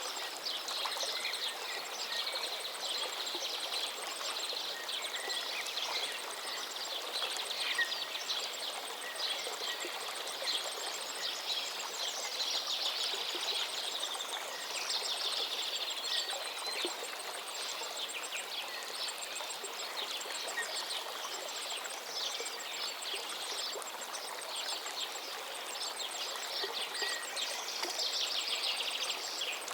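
River water flowing steadily, with several songbirds chirping and trilling over it throughout.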